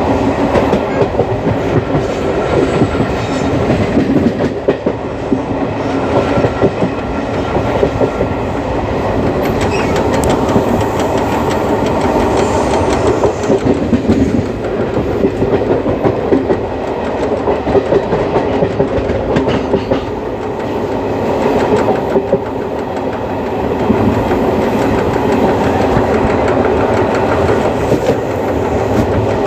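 Indian Railways ICF passenger coach running along the track, its wheels clattering steadily over the rail joints with a continuous clickety-clack and rumble.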